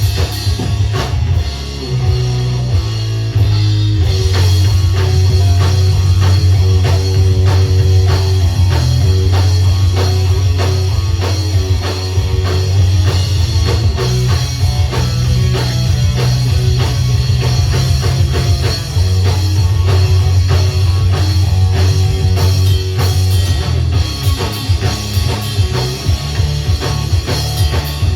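A punk rock band playing live: drum kit, distorted electric guitars and bass, with no singing in this stretch.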